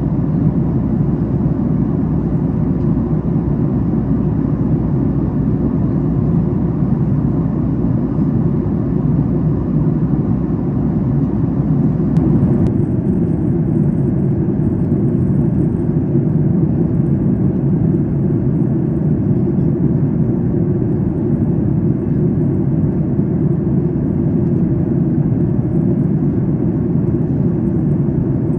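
Steady low cabin noise of a Boeing 737 MAX 8 at cruise, the rush of air and engines heard from an economy seat. The higher hiss drops away about twelve seconds in.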